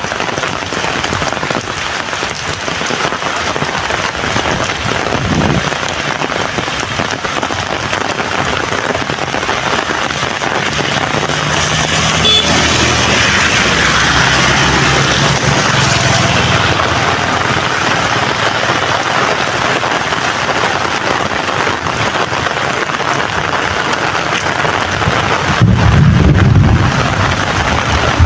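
Heavy rain falling steadily on surfaces, a constant hiss. About halfway through, a motor vehicle's engine passes by, and near the end a loud, low rumble rises over the rain for a second or two.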